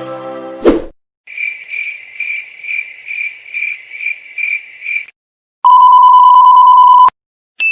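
A sequence of editing sound effects. First a chirping-cricket effect, the 'awkward silence' gag, pulsing about twice a second for about four seconds. Then a loud, steady censor bleep lasting about a second and a half that cuts off abruptly, with the start of a ding right at the end.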